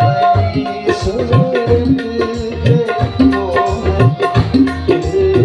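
Instrumental passage of an Indian devotional song: tabla playing a steady rhythm, its bass strokes sliding in pitch, under a held melody line.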